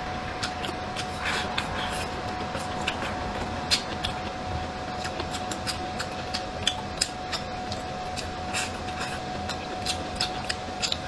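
Close-miked chewing of stir-fried tofu skin: a run of small, irregular mouth clicks, over a faint steady hum.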